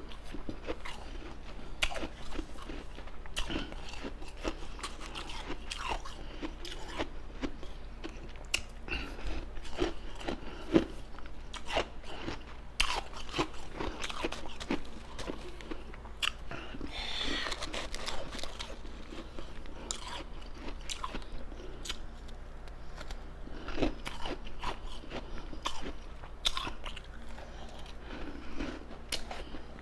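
Close-miked chewing of ice, with irregular sharp crunches and cracks between softer chewing and mouth sounds.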